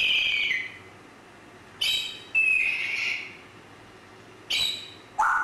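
Grey parrot calling and whistling: a string of loud, sharp calls with a few short pauses between them, some sliding down in pitch.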